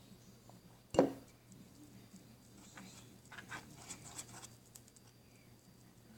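A single sharp knock about a second in, then a few seconds of faint scratching and crackling handling noises.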